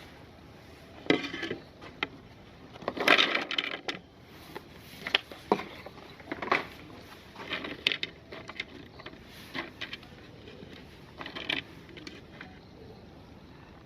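Irregular clinks and short crunching bursts, a second or two apart, from hard items being handled or fed through a meat grinder; the loudest burst comes about three seconds in.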